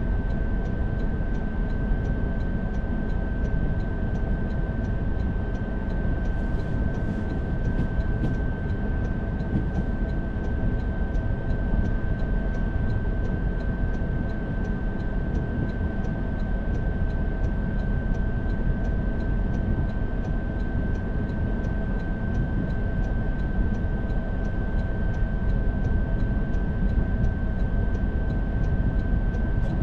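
Car cabin noise while driving: a steady low rumble of engine and tyres, with a thin steady whine and faint even ticking about twice a second.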